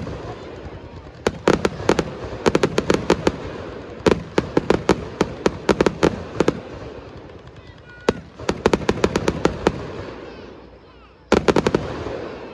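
Fireworks bursting overhead in rapid volleys of sharp cracks. There are four clusters of about a second or two each, with a rumbling echo between them.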